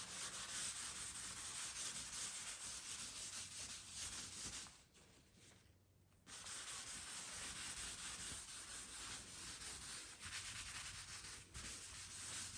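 Cloth towel rubbing back and forth on a hardwood floor, wiping out freshly dabbed stain to blend a touch-up into the old finish. It is a steady, soft scrubbing that pauses for a moment about five seconds in and then starts again.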